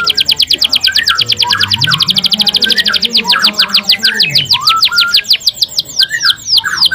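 Domestic canary singing a fast trill of rapid high repeated notes. About five seconds in it slows into a series of steeply falling notes, with shorter, lower chirps scattered underneath.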